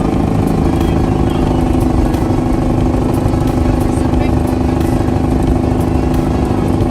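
Truck driving, with a steady engine and road drone.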